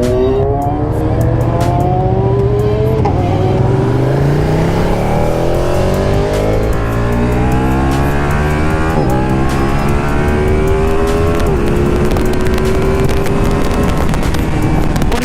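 Motorcycle engine accelerating through the gears: its pitch climbs steadily and drops at each upshift, about three, nine and eleven and a half seconds in.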